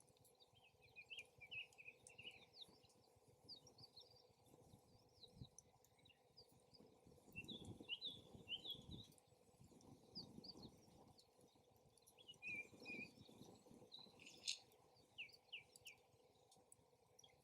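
Faint small-bird chirping in quick clusters of short high falling notes, with low rumbles of wind gusting now and then. A single sharp crack near the end.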